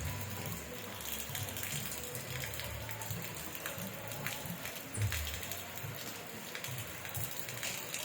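Steady rain falling, an even hiss with scattered sharper drops and drips, over an uneven low rumble that swells briefly about five seconds in.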